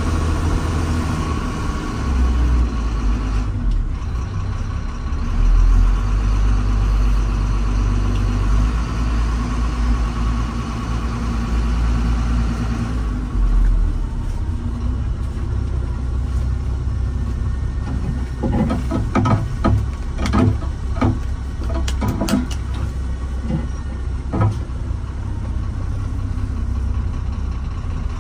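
Heavy earthmoving equipment's engine running steadily with a low drone. About two-thirds of the way through comes a cluster of sharp knocks and clatter, lasting several seconds.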